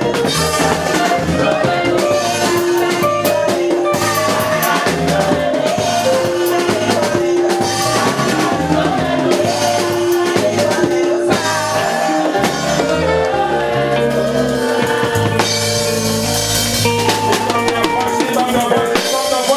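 Live gospel worship band playing: drum kit keeping a steady beat under keyboard chords, with some singing.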